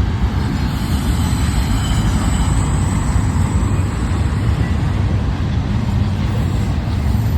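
Freight train passing close by: a steady, loud rumble of wheels on rail, with a faint high-pitched squeal over it in the first few seconds.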